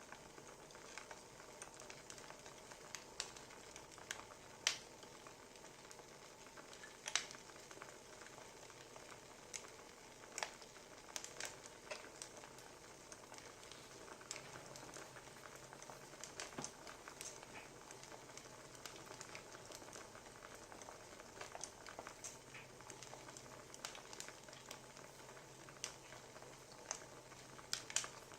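Wood fire crackling softly: irregular sharp snaps of burning logs over a faint steady hiss.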